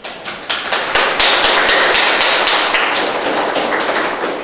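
A classroom of pupils applauding. The claps build up over the first second and ease off a little toward the end.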